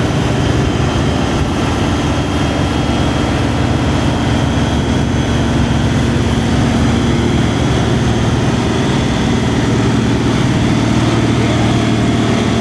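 Fendt Favorit 824 tractor's MAN six-cylinder diesel running hard under load on a PTO dynamometer, a steady heavy drone at an even pitch.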